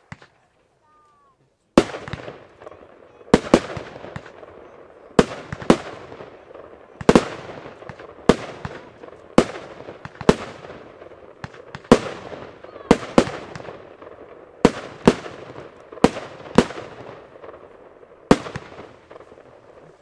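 Compound firework cake firing shells one after another: after a near-silent start, more than a dozen sharp bangs, some in quick pairs, about one a second, each fading off in an echo.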